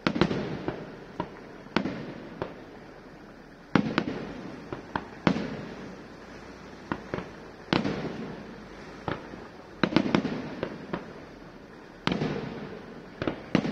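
Aerial firework shells bursting in quick succession, a sharp bang every second or two, each trailing off in a fading rumble of echo, with smaller sharp pops in between.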